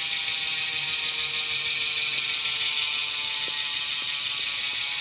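Bontrager Aeolus Pro 5 wheel's rear hub freewheeling as the wheel spins: the freehub ratchet gives a steady, high-pitched buzz of fast clicks.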